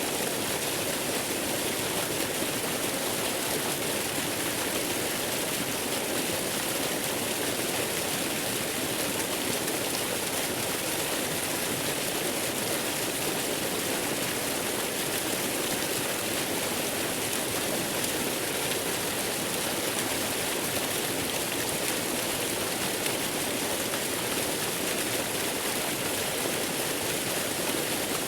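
Waterfall's water rushing and splashing, a steady unbroken hiss.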